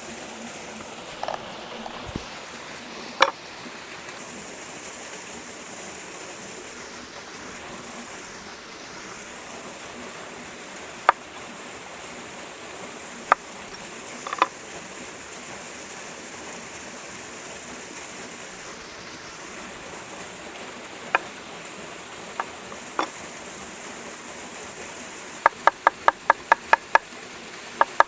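A steady rushing background with a few scattered sharp taps and clicks. Near the end comes a run of quick, even knocks, about three a second: a knife chopping food on a wooden cutting board.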